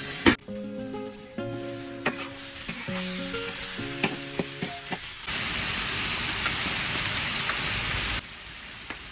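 Food frying in a pan, stirred with a utensil that clicks against the pan now and then, with a soft melody underneath. About five seconds in, a steady sizzling hiss takes over and grows louder, then drops away shortly before the end.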